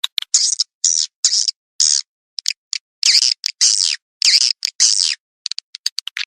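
Edible-nest swiftlet calls on a recording: an irregular run of short, harsh chirps with quick clicks between, separated by clean silence. It is a swiftlet lure call, made to draw swiftlets into a swiftlet house to roost and nest.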